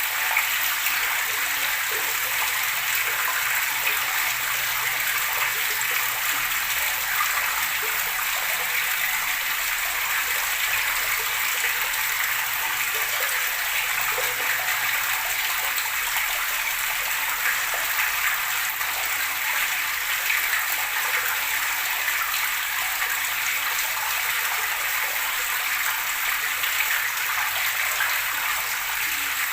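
Running water gurgling and splashing steadily, an even rush with no pauses.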